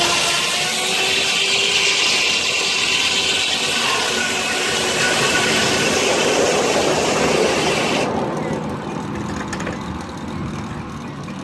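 Steam-powered sawmill blade cutting a log, driven by a 1926 Keck Gonnerman steam traction engine. The loud, steady cutting sound with a high whine stops suddenly about eight seconds in as the cut ends, leaving the quieter run of the machinery.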